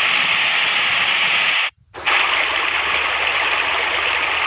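Two previews of a rushing-water sound effect played back from a phone's sound-effects library, a steady hiss of water that cuts off sharply about 1.7 seconds in and starts again a moment later.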